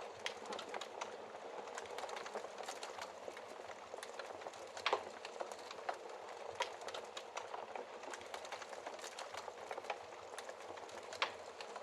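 Wood fire crackling steadily in a fireplace, with a dense run of small snaps and a few louder pops about five, six and a half and eleven seconds in.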